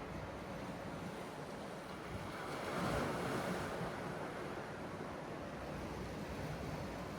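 Sea waves washing ashore in winter wind, one wave breaking louder about three seconds in. Wind rumbles on the microphone.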